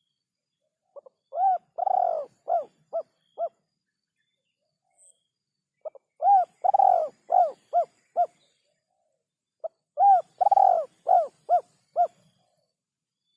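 Spotted dove cooing: three phrases of about six short coos each, every coo rising and falling in pitch, the phrases about four seconds apart.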